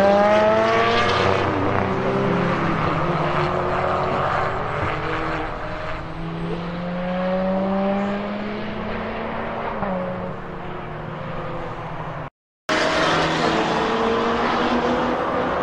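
Sports car engines on a circuit: one accelerates hard, its pitch climbing through quick upshifts, then another car's engine rises and falls in pitch as it passes. The sound drops out briefly near the end before another car's engine takes over.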